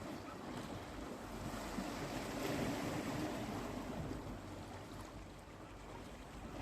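Sea waves washing onto the shore, one wave swelling to its loudest about two and a half seconds in and then receding.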